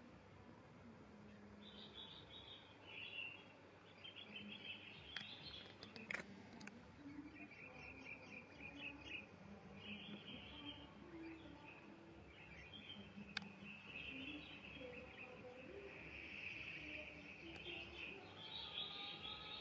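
Faint wild birds chirping and calling in short repeated phrases, with a couple of sharp clicks.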